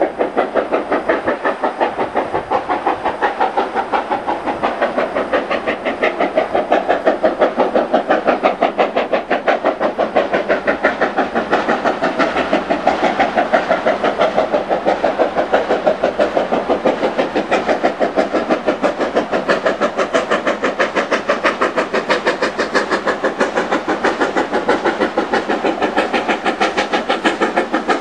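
Steam locomotive working steadily, its exhaust beating evenly at about four beats a second.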